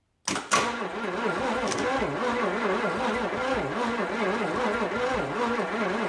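1956 Chevy 265 small-block V8 being cranked over on the starter without starting, a steady churning with a regular rise and fall in pitch, starting about a quarter second in. It is being cranked to check for spark from the coil, and none comes: a sign of dirty ignition points.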